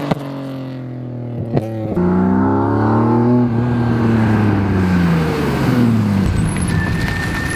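BMW E36 engine and exhaust: the note settles low, then the revs climb smoothly and fall back over a few seconds. A steady high-pitched squeal starts near the end.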